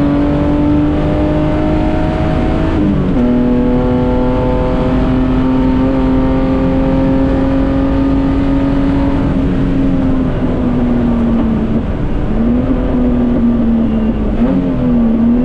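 Datsun 240K Group C race car's straight-six engine at high revs under load. The pitch climbs, drops sharply at an upshift about three seconds in, and holds steady for several seconds. Near the end it dips and recovers a few times as the throttle is lifted and reapplied.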